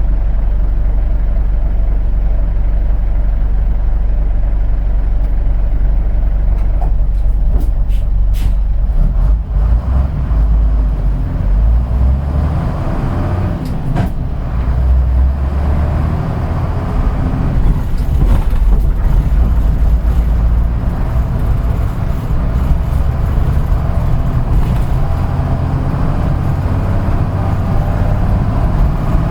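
Route bus diesel engine heard from inside the cabin, idling steadily. There are a few sharp clicks about a quarter of the way in and another near the middle, then the engine note rises as the bus gets moving and it runs on steadily.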